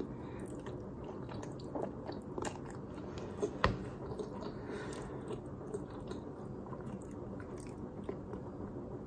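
A person chewing a mouthful of creamy spaghetti carbonara, with soft wet mouth sounds and scattered small clicks over a steady low hum. One sharper click comes about three and a half seconds in.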